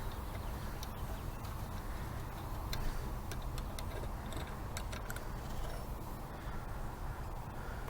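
Scattered light clicks and ticks, several close together in the middle, over a steady low background noise: small parts and tools being handled at a workbench, with no engine running.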